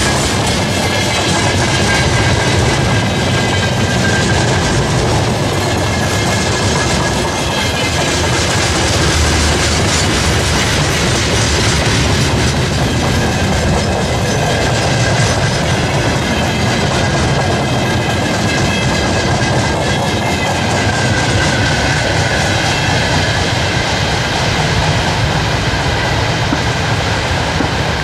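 Freight train's wagons rolling past at speed: a steady rumble and clatter of wheels over the rails, with a faint high whine coming and going.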